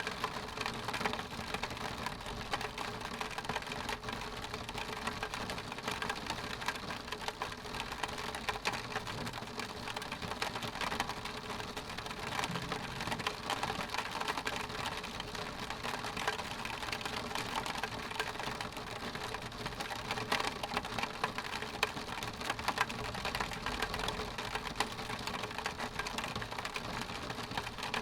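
Rain falling on window glass: a steady, dense ticking of drops hitting the pane, with no thunder.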